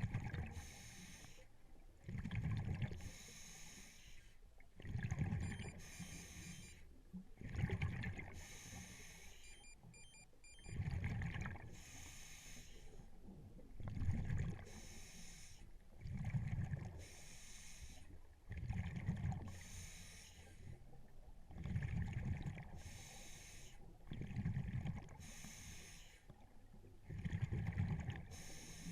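Scuba diver breathing through a regulator underwater: a regular cycle of regulator hiss and rumbling bursts of exhaled bubbles, about one breath every two and a half seconds.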